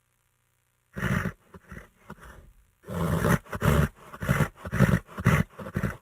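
Horse making short, low, rough sounds: one loud one about a second in, a few faint ones after it, then a quick run of them from about three seconds in.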